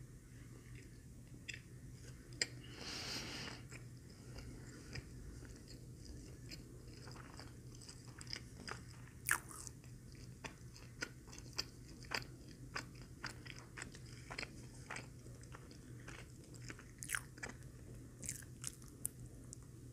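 Close-miked mouth sounds of biting and chewing a McDonald's Filet-O-Fish sandwich: many short, wet smacks and clicks. There is a longer hissy burst about three seconds in, and a steady low hum underneath.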